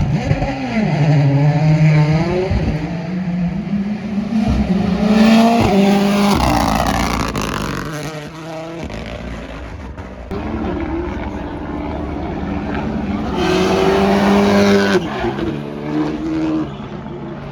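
Rally car engine at full throttle, its pitch climbing and dropping sharply through gear changes. It is loudest about five seconds in and again around fourteen seconds in.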